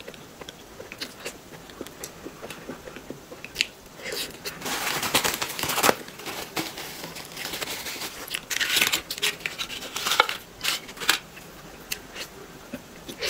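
Close-miked wet chewing, lip-smacking and mouth clicks of someone eating soft, sticky xuemeiniang (snow-skin mochi with a cream filling), with louder, noisier stretches about five and nine seconds in.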